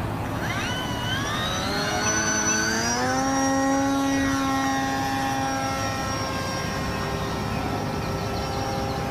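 Electric motor and propeller of a foam RC seaplane throttling up for takeoff. A whine rises in pitch over the first three seconds, then holds steady at speed.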